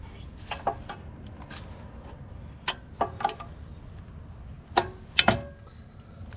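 Sharp metal-on-metal clinks and knocks with a short ring as steel latch parts of a skid steer quick-attach plate are tapped and fitted together. They come in three small groups, the loudest pair about five seconds in, over a steady low rumble.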